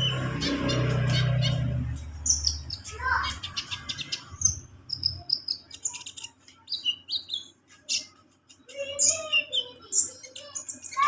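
Kolibri ninja sunbird singing: quick, high, thin chirps and short trilled notes in scattered phrases, with a lower warbling phrase near the end. A low hum is under the first two seconds.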